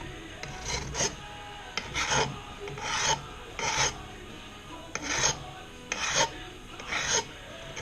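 Hand file drawn lightly along the edges of a Stanley No.112 scraper plane's cast-iron sole in separate rasping strokes, about one a second. The filing breaks the sharp edge at the heel, sides and toe so the plane won't dig into the wood.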